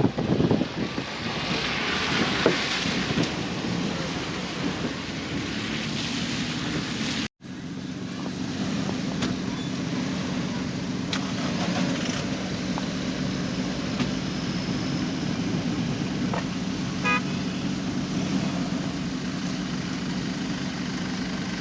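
Off-road 4x4 vehicle sounds: a noisy rushing for the first seven seconds, a sudden break, then a steady engine hum with a short beep about seventeen seconds in.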